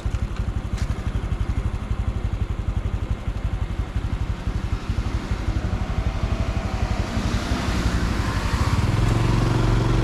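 Honda Super Cub C125's single-cylinder engine running at low revs with an even putter, then revving higher and running louder and steadier from about seven seconds in as the bike picks up speed. A short click sounds at the very start.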